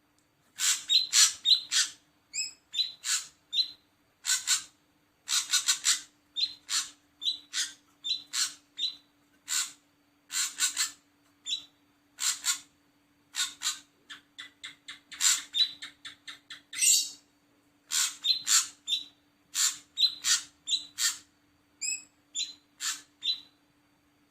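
Ashy drongo calling: a rapid run of short, harsh, scratchy notes in quick groups, with a few clearer whistled notes mixed in. A faint steady hum sits underneath.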